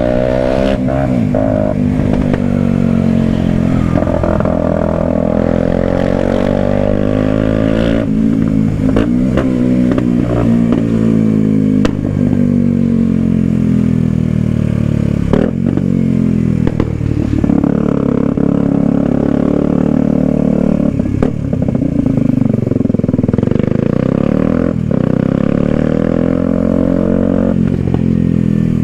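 Kawasaki Ninja 125's single-cylinder four-stroke engine pulling under way. Its pitch climbs as it revs and drops sharply again and again, as on gear changes or rolling off the throttle, with short clatters in between.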